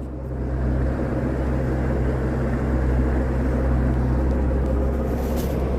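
Motorboat engine running steadily under way: a constant low hum with a rushing noise over it.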